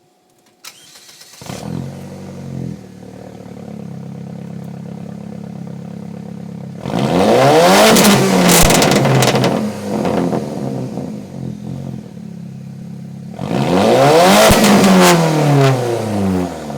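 Saab 9-3 turbo engine through a straight-piped exhaust (open pipe from the catalytic converter back): a click, then the engine starts about a second and a half in, flares briefly and settles to idle. It is then revved twice, each rev rising in pitch and falling back to idle.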